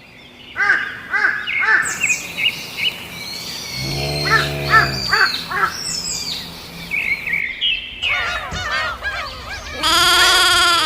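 Birds calling: many short, arched calls one after another, a lower, longer call about four seconds in, and a loud, rapidly wavering call near the end.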